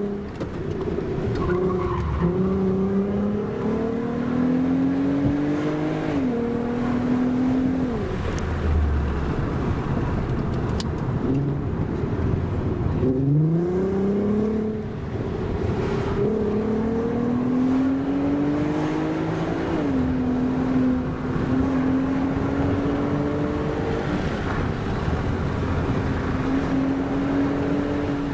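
The VW Golf R32's 3.2-litre VR6 engine heard from inside the cabin, with a Milltek exhaust. It pulls with rising pitch and drops back at DSG upshifts about 6, 8 and 20 seconds in. About halfway it dips and then revs up sharply, and it holds a steady note near the end.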